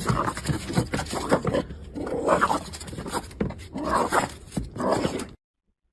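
A pet animal calling loudly over and over, the calls rising and falling in pitch, then cut off suddenly a little past five seconds in.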